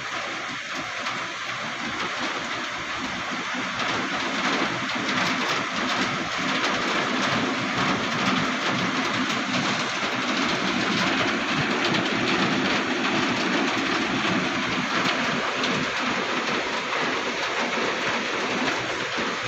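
Rain falling steadily, a dense even hiss of drops that grows a little louder about four seconds in.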